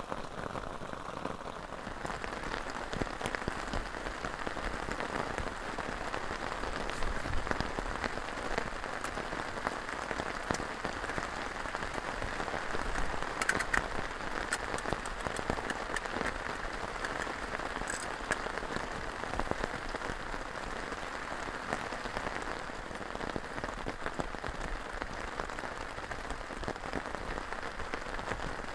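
Heavy rain falling steadily on a tarp and the surrounding forest, with many small sharp drop ticks scattered through the hiss. The rain sound grows fuller and brighter about two seconds in.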